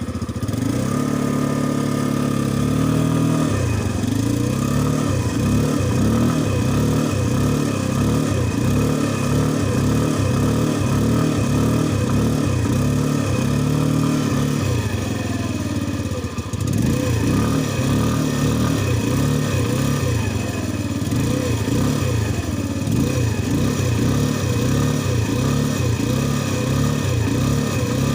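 Engine revved up and down over and over, its pitch rising and falling about once a second, with a brief drop in level about two-thirds of the way through.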